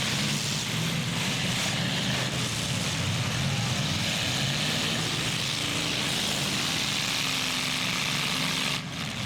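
Engines of several demolition-derby trucks and SUVs running together, a steady mechanical drone with a brief drop in level near the end.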